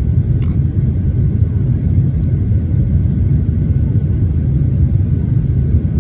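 Boeing 737-800's CFM56-7B jet engines at takeoff power: a loud, steady low rumble.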